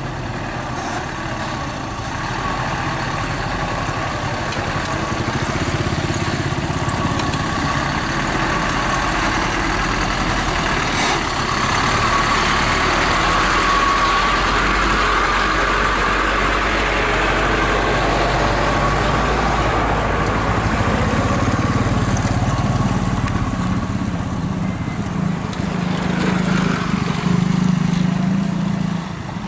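Loaded oil-palm fruit trucks driving along a road: engine and road noise, swelling towards the middle, with a deeper engine note stronger in the last few seconds before it drops off suddenly.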